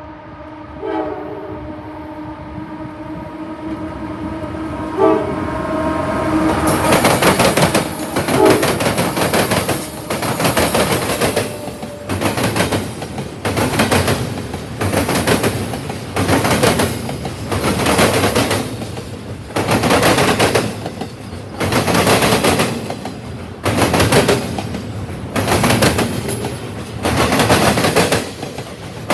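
Freight train locomotive sounding its horn, a steady chord that stops about six seconds in. Then the train's wheels clatter over the rail joints in loud rhythmic surges about every two seconds as the cars roll past.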